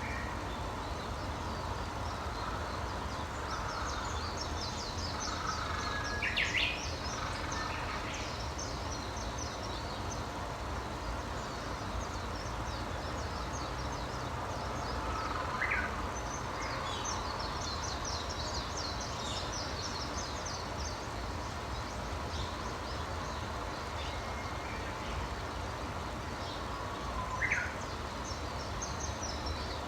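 Wild birds singing: bursts of rapid, high-pitched trills come and go, with a few short, sharp louder calls about six, sixteen and twenty-seven seconds in. Underneath runs a steady low background noise.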